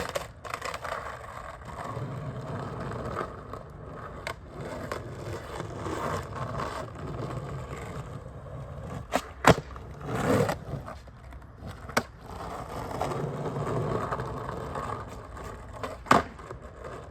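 Skateboard wheels rolling with a steady rumble, broken by several sharp clacks of the board striking the ground, the loudest about nine and a half seconds in and near the end.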